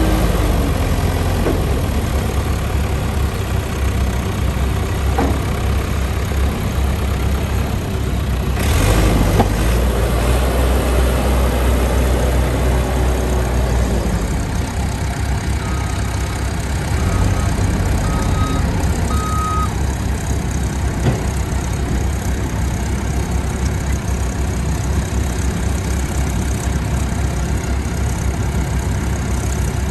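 New Holland 555E backhoe loader's diesel engine running steadily, with a louder surge about nine seconds in. A few short high beeps sound near the middle.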